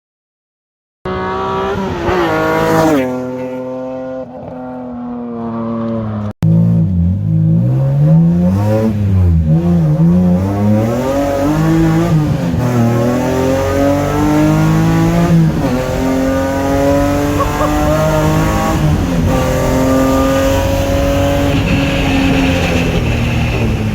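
E46 M3 S54 straight-six engine in a BMW E30 track car being driven hard, its pitch climbing through each gear and dropping sharply at shifts and under braking, over and over. It comes in about a second in and gets louder after an abrupt break about six seconds in.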